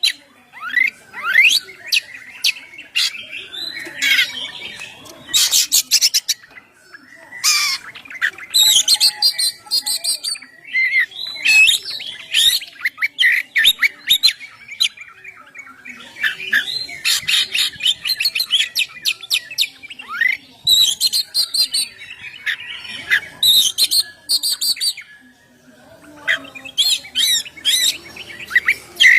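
Oriental magpie-robin (kacer) singing a long, varied song in phrases: clear whistles mixed with rapid runs of sharp repeated notes and harsher rattling notes, with brief pauses between phrases.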